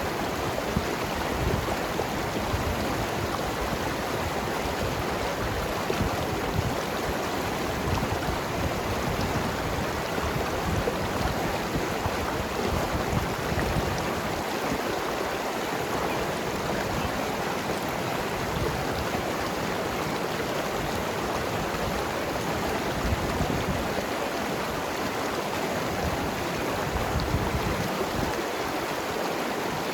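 Mountain river flowing and gurgling over rocks: a steady rush of water with small irregular swells.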